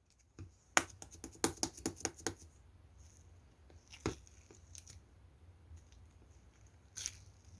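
Blue slime being pressed and played with by hand, giving a quick run of sharp clicking pops in the first couple of seconds, a louder pop about four seconds in and another near the end.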